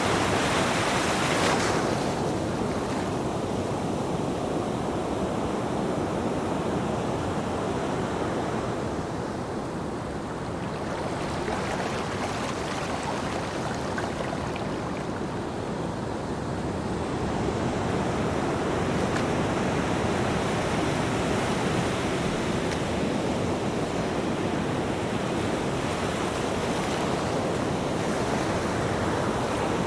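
Ocean waves washing on a beach: steady surf noise with a wave breaking about two seconds in, a gentler lull in the middle, then the surf swelling again.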